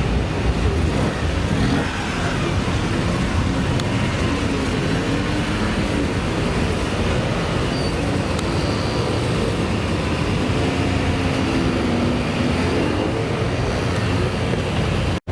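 Modified car's engine and exhaust running at low revs: a steady deep rumble whose pitch drifts slightly up and down. The sound cuts off abruptly near the end.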